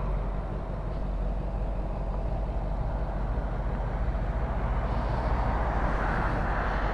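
Suzuki GSX-R 600 inline-four engine running steadily, with wind noise on the microphone that grows toward the end.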